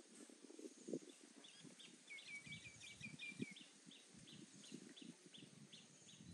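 Faint bird chirping: a string of short high notes, with a quick run about two seconds in, then the same chirp repeated about three times a second, over faint low rustling.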